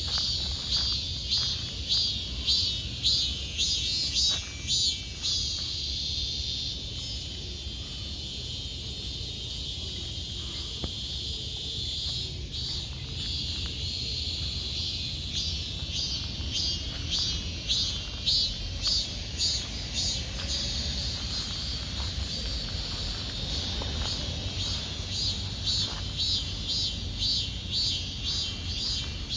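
Footsteps on a forest path, about two steps a second, easing off for several seconds in the middle before picking up again, over steady high insect chirring and a low rumble.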